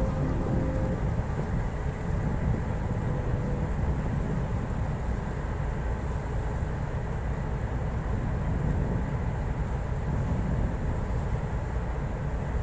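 Ship's engine room machinery running: a steady, low-pitched rumble with a faint high whine above it.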